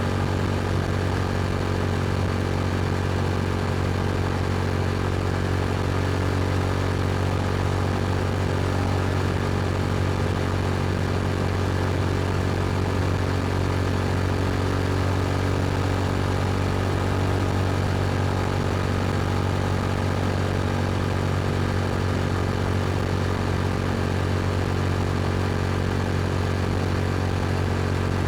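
Yamaha R7's parallel-twin engine running through an Akrapovic exhaust at a steady, unchanging engine speed.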